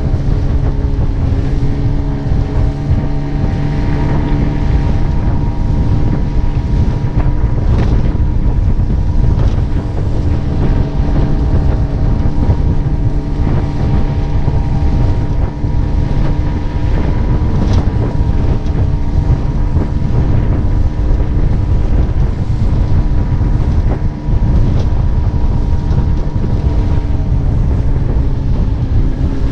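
Mercury 9.8 hp outboard motor running steadily at a constant speed, pushing a mini boat along, with wind buffeting the microphone.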